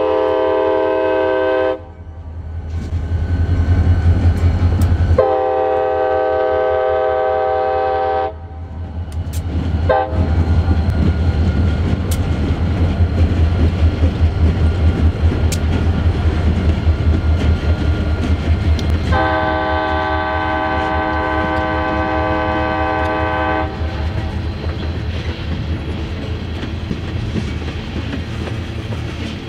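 Diesel locomotive air horn sounding three long chords: one ending about two seconds in, a second of about three seconds starting around five seconds in, and a third of about four and a half seconds starting just past the middle. Under the horn, passing CSX EMD diesel locomotives drone steadily, and their wheels and those of the tank cars behind them clatter on the rails with a few sharp clicks.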